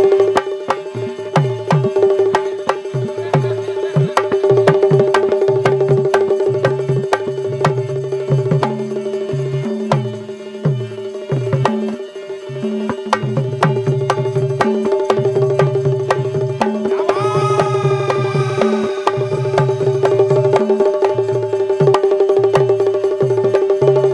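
Instrumental interlude of Bundeli Diwari folk music: fast, dense drumming and percussion over a steady held drone, with a short melodic phrase with sliding pitch about two thirds of the way through.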